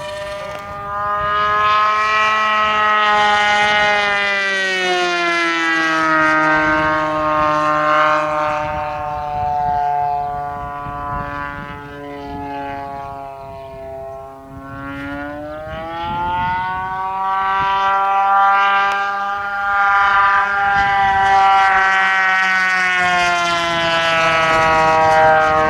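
Radio-controlled model airplane's engine running in flight, a loud, noisy buzz whose pitch slides down and back up several times as the plane passes and changes throttle.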